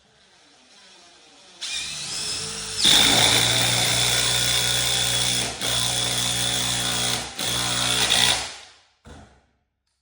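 Power drill spinning up with a rising whine and then running steadily for about six seconds, dipping briefly twice, then cut off, followed by a short burst near the end.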